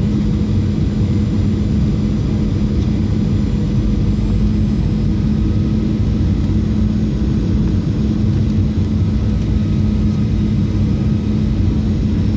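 Steady cabin drone of a Boeing 737-800 in flight on its landing approach: the CFM56-7B jet engines and rushing airflow, with a steady low hum.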